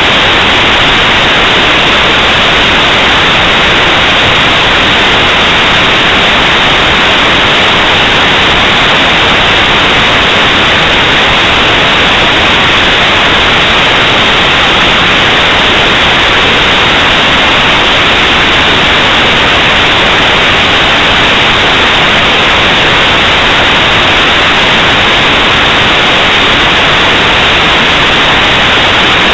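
Loud, steady static hiss, even and unchanging, with no tones or events in it.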